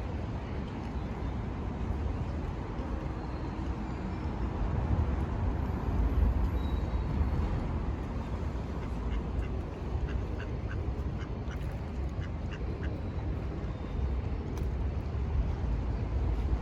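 Steady low outdoor rumble, with a run of short, quickly repeated animal calls in the middle.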